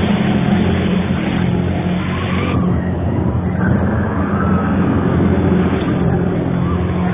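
Loud, steady, low droning hum made of several held tones over a rough rushing noise, heard as the strange trumpet-like sound in the sky. The upper hiss drops away about two and a half seconds in, while the low drone carries on unchanged.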